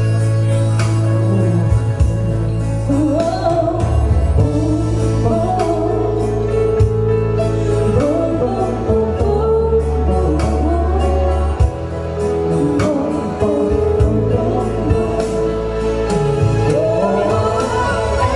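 A slow ballad sung live with band accompaniment: a vocal melody over steady bass and sustained keyboard chords.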